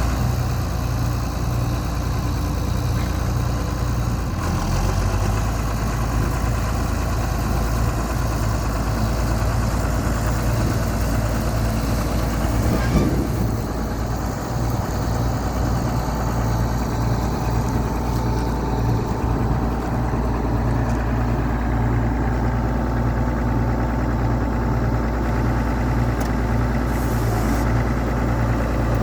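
Allis-Chalmers 7000 tractor's 4.9-litre six-cylinder diesel engine idling steadily.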